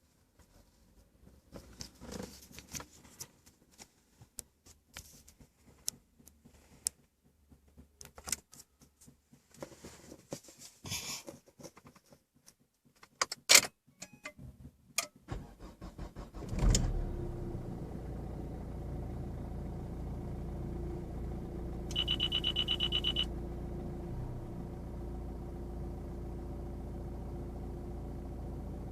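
Keys and small clicks rattle for about fifteen seconds. Then the Renault Mégane's 1.5 dCi diesel engine cranks briefly and catches with a surge about seventeen seconds in, settling into a steady idle. A rapid electronic beeping sounds for about a second over the idle.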